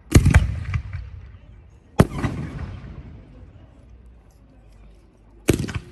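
Aerial fireworks shells bursting: a loud bang right after the start followed by a quick run of pops, a single bang about two seconds in, and another near the end, each trailing off in a low rumbling echo.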